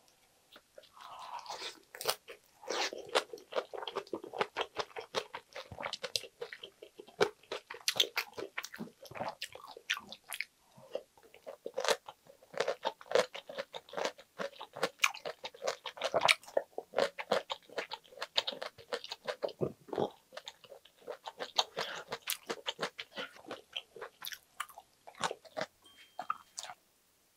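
Close-miked chewing of a mouthful of lettuce wrap with spicy stir-fried pork intestines (gopchang): crisp lettuce crunching and wet chewing, rapid and continuous. It starts about a second in and tails off just before the end.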